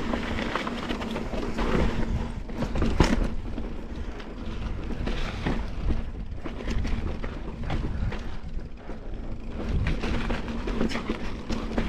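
Mountain bike riding over slickrock: tires rolling on rock, the bike rattling and knocking over bumps, with wind on the microphone. A sharp knock stands out about three seconds in.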